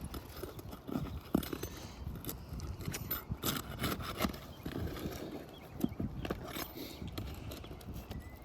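Irregular knocks, clicks and scrapes of hand tools on asphalt roof shingles as the shingles are pried up and their nails pulled.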